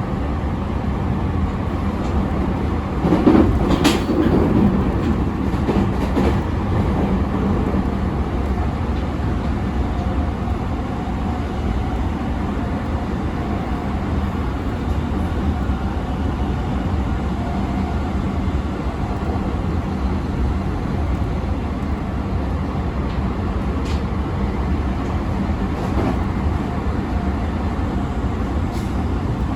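Running noise of an E217 series electric train with Mitsubishi IGBT inverter drive: a steady rumble of wheels on rail and traction equipment, with a louder clatter about three to four seconds in.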